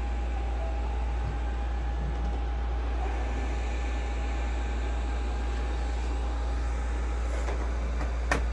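Robot vacuum cleaners running: a steady whir of motors and brushes with a faint constant whine, and one sharp click near the end.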